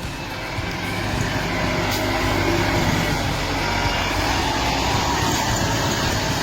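Heavy machinery engine running steadily under load, a dense continuous mechanical noise with a strong low rumble.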